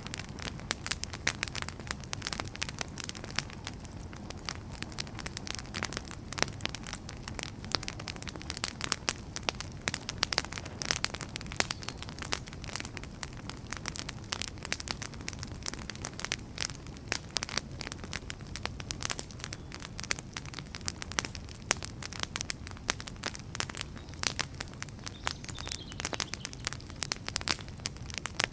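Wood fire crackling: many sharp, irregular pops and snaps over a low, steady rumble of burning.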